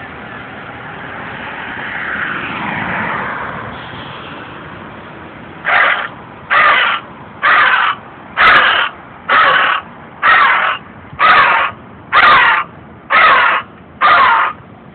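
A man imitating a crow: ten loud, harsh caws about a second apart, starting about six seconds in after a stretch of background noise.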